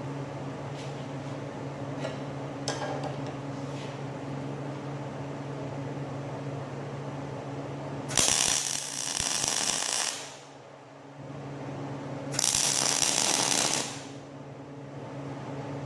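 A steady low hum from the welder, then two crackling tack welds with the arc, one of about two seconds starting about eight seconds in and a shorter one about four seconds later.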